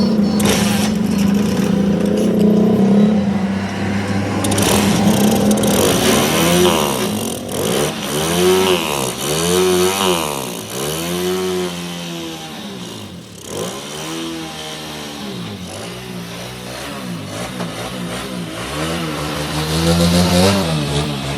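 Motorcycle engine running steadily, then revved up and down over and over, about once every second and a half. It settles back and rises once more near the end.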